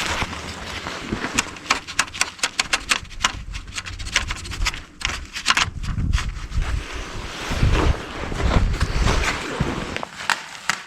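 Quick, irregular clicks and knocks of hand tools working on metal parts of a tractor's side panel, thickest in the first half, with wind rumbling on the microphone.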